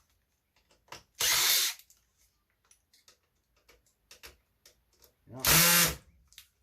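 Power drill driving screws out of an old eMac computer, in two bursts: a short spin about a second in and a longer one near the end that winds up and back down. Faint clicks come between the bursts.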